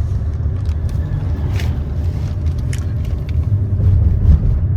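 Steady low rumble of a car's engine and tyres heard from inside the cabin while driving, with a few short faint clicks.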